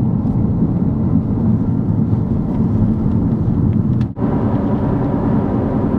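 Steady low rumble of a car driving, with road and engine noise, briefly dipping about four seconds in.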